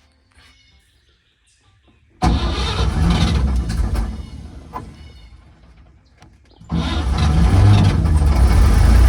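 Old Chevrolet Stovebolt inline-six truck engine firing up suddenly on starting ether, running about three seconds and dying away, then catching again a couple of seconds later and running on. It is running only on the ether spray, with no working choke.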